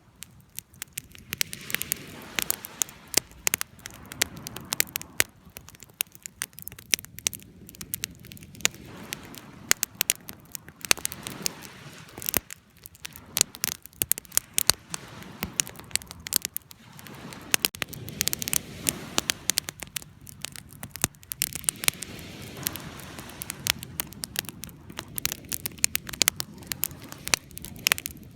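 Wood fire crackling, with frequent sharp, irregular pops over a low steady hiss.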